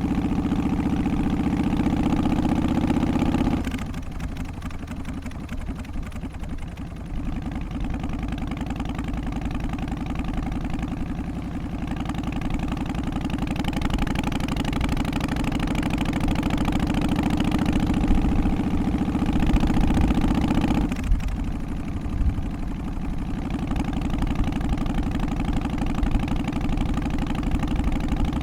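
Harley-Davidson Twin Cam 88 V-twin engine running continuously. Its sound drops suddenly about four seconds in, builds back up gradually, and drops suddenly again about 21 seconds in.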